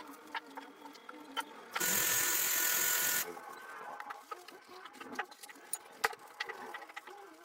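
Workshop work sounds: scattered light clicks and taps of tools and metal being handled, with one loud hiss lasting about a second and a half, a couple of seconds in.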